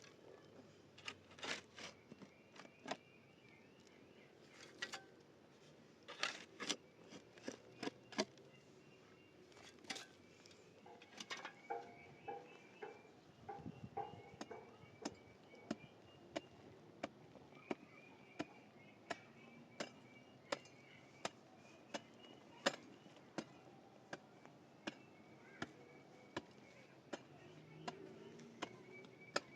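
Sharp knocks, irregular and clustered at first, then steady at about one a second through the second half.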